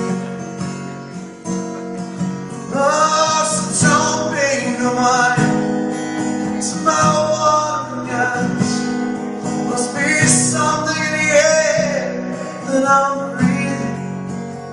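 Acoustic guitar strummed, with a man singing from a few seconds in.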